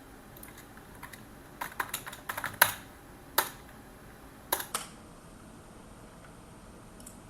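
Computer keyboard being typed on: a quick run of keystrokes, then a few single, louder key strikes, after which the typing stops about five seconds in.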